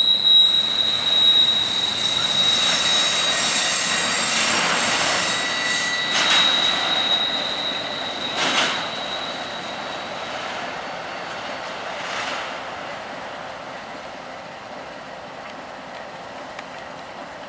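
Train rolling past with its wheels squealing in one steady high tone that stops about halfway through; the rushing noise of the cars fades steadily as the train moves away.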